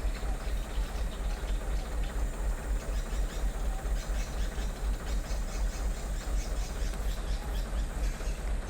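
Vehicle engine idling steadily with a low, rapid throb, in a line of traffic held up by floodwater.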